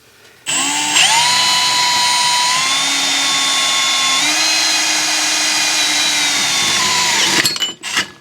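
Power drill running a Spectral stepped-point drill bit through aluminum: the motor spins up about half a second in, holds a steady whine with small shifts in pitch as the bit cuts, and winds down about seven and a half seconds in. A few short clicks follow near the end.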